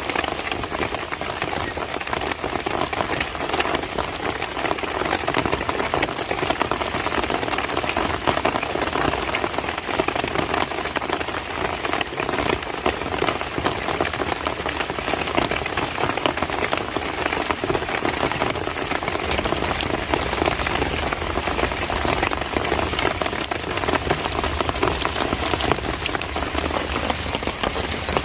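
Steady heavy monsoon rain falling on surfaces, a dense even patter of countless drops.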